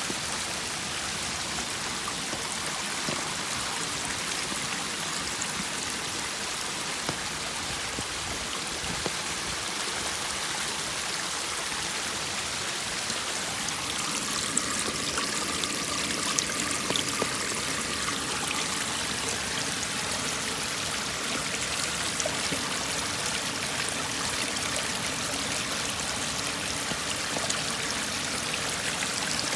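Runoff water after rain cascading down a flight of steps like a small waterfall: a steady rush of flowing, splashing water, with a few small splashes standing out about halfway through.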